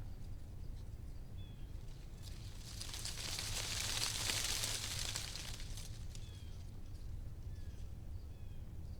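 Wind rustling through tree leaves, swelling into a gust about three seconds in that dies away by about six seconds, with a steady low rumble underneath. A few faint, short bird chirps come through at intervals.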